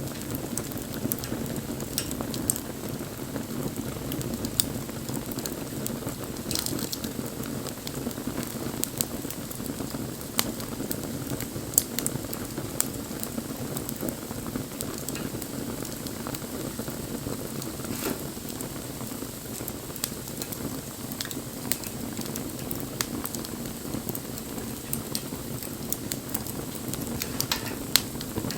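Wood fire burning: a steady low rush of flames with scattered crackles and sharp pops of burning wood.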